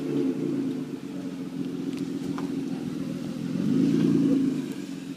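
BMW 528i's straight-six engine running through an exhaust with the muffler deleted, idling with one short rev about three and a half seconds in that falls back to idle a second later.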